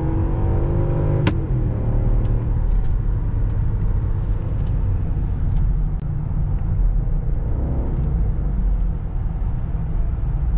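BMW X5 E53 4.4i's M62 V8 engine and tyres giving a steady low rumble as the SUV drives along, with a single sharp click about a second in.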